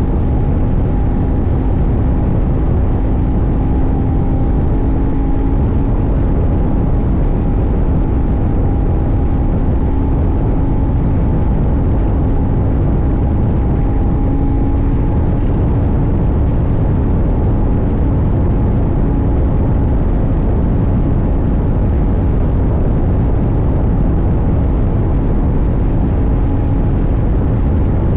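CFMoto 800NK's 799 cc parallel-twin engine running at a steady, nearly unchanging pitch while the bike cruises, with heavy wind rush on the tank-mounted microphone.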